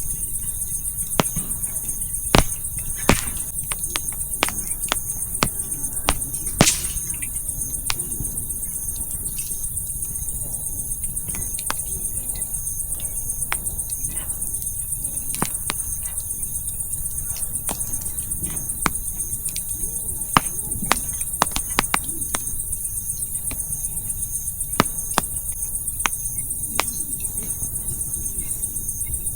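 Wood campfire crackling, with sharp irregular pops and snaps scattered throughout, over steady high-pitched chirping of crickets.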